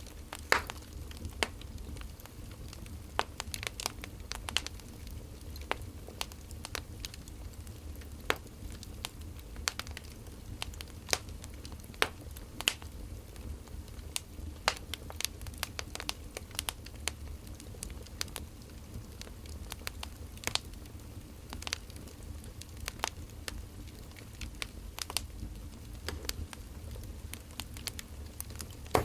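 Wood fire crackling: irregular sharp pops and snaps from burning firewood over a low steady rumble.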